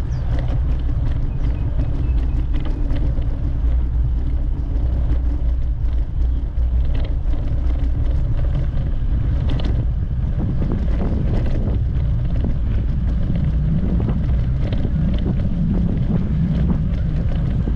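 Wind buffeting the microphone while riding a bicycle, a steady low rumble, with a few faint light clicks.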